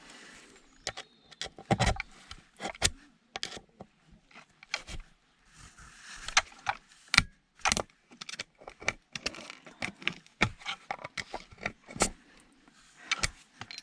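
Irregular clicks, taps and scrapes of a screwdriver prising brass ferrules out of electrical components, with small metal parts clinking.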